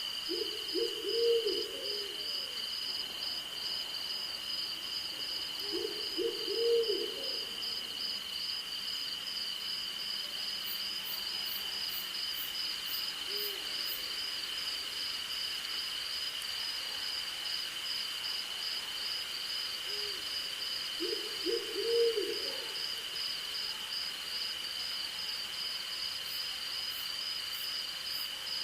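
Night insect chorus of crickets trilling steadily on one high tone, with a faster pulsing trill above it. Over it an owl hoots in short runs of several low notes, three times: near the start, about six seconds in and about twenty-one seconds in, with a few single hoots in between.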